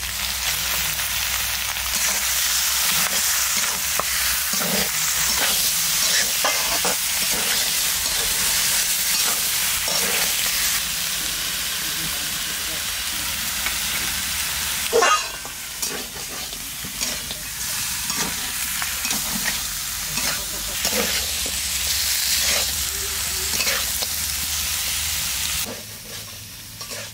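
Duck meat frying and sizzling in hot oil in a metal kadai, stirred with a metal spatula that scrapes and knocks against the pan, with one sharp clank about halfway. The sizzle drops off near the end.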